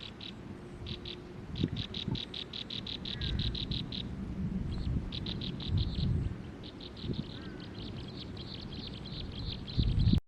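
A small bird chirping in quick runs of short high notes, about eight a second, with pauses between runs, over a low rumbling noise. The sound cuts off suddenly at the end.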